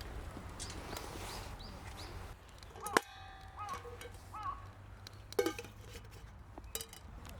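A few sharp metal clinks, each followed by a brief ringing tone, over a low steady hiss. The loudest clink comes about three seconds in and another about five and a half seconds in.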